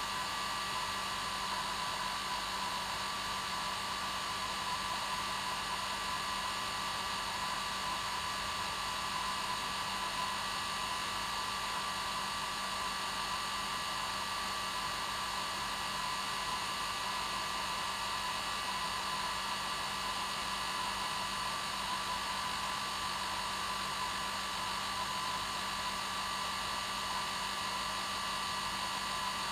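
Hair dryer running steadily on its normal setting: a constant fan-and-airflow whoosh with a steady hum and whine, unchanging throughout.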